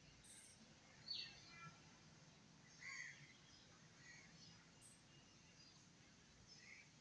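Near silence, with a few faint, short bird calls; the clearest come about a second in and about three seconds in.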